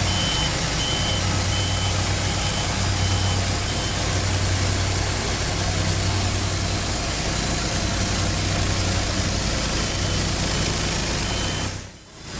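Engines running steadily with a backup alarm beeping on and off over them, at the start and again for a few seconds near the end. Everything drops out briefly just before the end.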